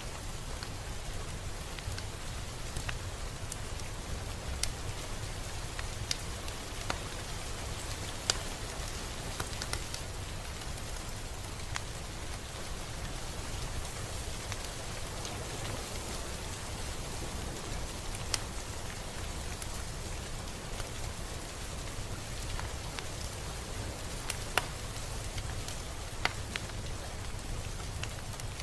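Steady rain falling, with an even hiss, a low rumble underneath, and scattered louder drops ticking on a nearby surface.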